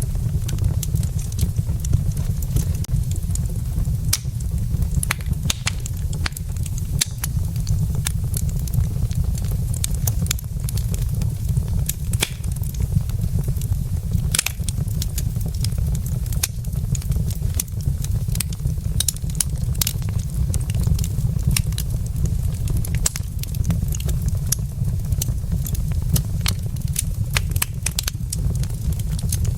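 Wood logs burning in a fireplace: frequent sharp, irregular crackles and pops over a steady low rumble.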